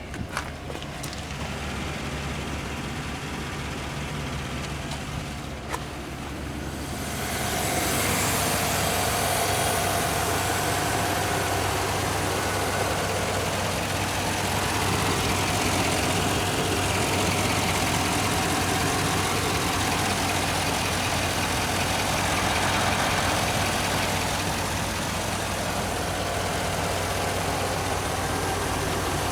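Chevrolet Silverado 6.6 L L8T gas V8 idling steadily. It grows louder about seven seconds in, then holds an even idle without revving.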